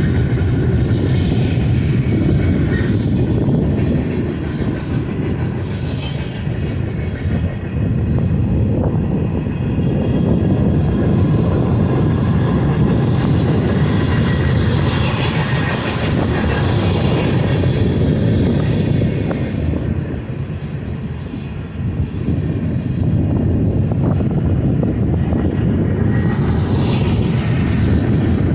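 Freight train rolling past: a steady rumble and rattle of the cars on the rails, easing off briefly twice.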